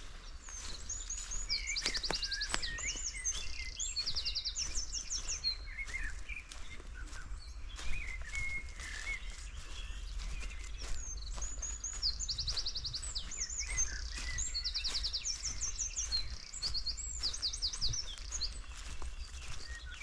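Small songbirds calling in the forest: high chirps and quick trills of rapidly repeated notes, in two bouts, the second about halfway through.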